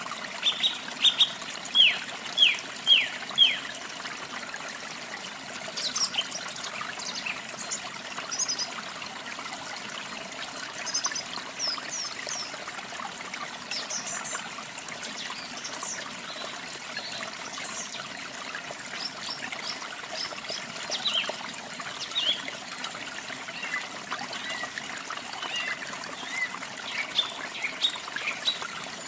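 Steady trickling water with songbirds chirping over it: a quick run of falling notes in the first few seconds, then scattered short high chirps.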